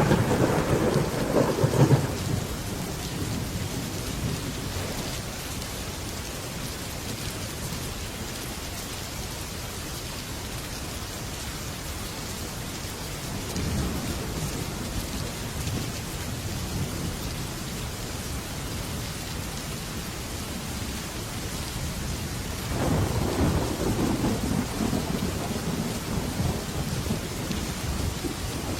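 Heavy rain pattering steadily on a metal roof, with thunder rumbling near the start, a fainter rumble about halfway through, and a longer rumble building again in the last several seconds.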